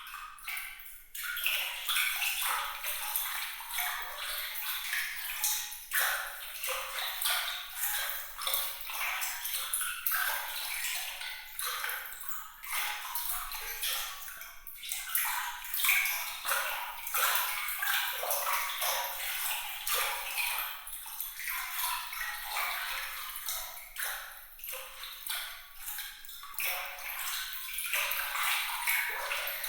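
Water trickling and splashing in a bright, high, sparkling texture of many small plinks and drips, with no low rumble.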